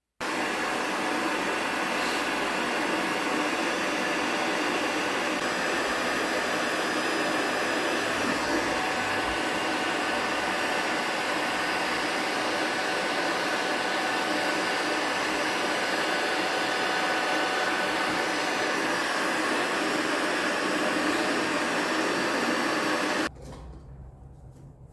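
Heat gun blowing steadily for about 23 seconds, then switched off suddenly. It is heating stubborn brake disc bolts on a motorcycle wheel to free them.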